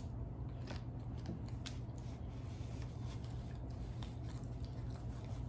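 Close-up chewing of a crunchy hard-shell taco: scattered crisp crunches and clicks, over a steady low hum.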